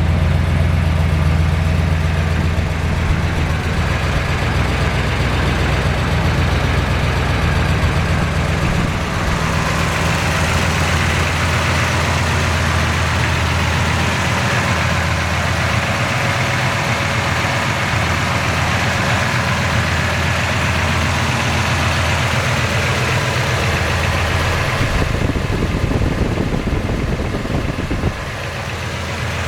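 1970 Chevelle SS's 454 big-block LS6 V8 running steadily. Its deep low rumble thins out about a third of the way in, leaving a hissier sound, and comes back near the end.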